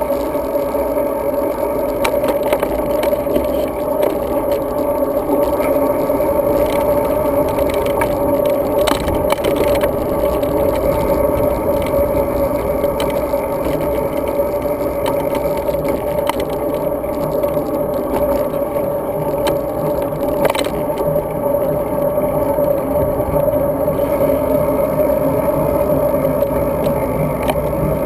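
Steady riding noise from a road bike as it rolls along: a constant hum and rumble, with scattered small clicks and rattles, picked up by a GoPro Hero 2 camera riding along with the bike.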